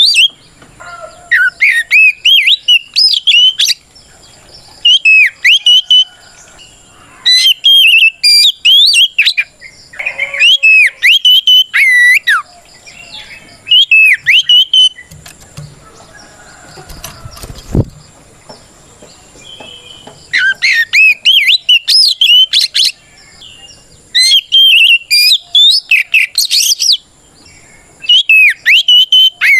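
Oriental magpie-robin (kacer) singing its loud challenge song, which calls out a rival. It goes in rapid bursts of varied, sweeping whistles, each burst a second or two long with short pauses between. There is a longer lull past the middle, broken by a single knock.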